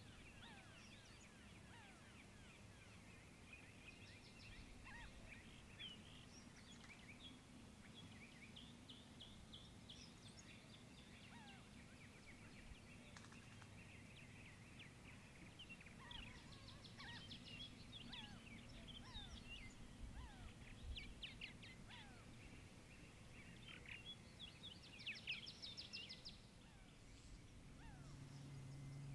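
Faint outdoor ambience of several small birds chirping, with quick trills now and then, over a low steady hum.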